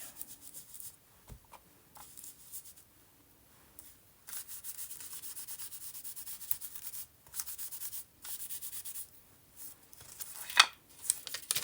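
Quick rhythmic rubbing strokes of a stamp being worked on an ink pad to re-ink it, in a few runs with short breaks. A single sharp knock near the end.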